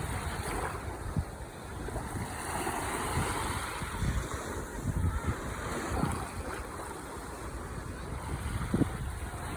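Ocean waves washing onto the shore in a continuous surf wash, one wave swelling and breaking about two to four seconds in. Wind buffets the microphone in scattered low thumps.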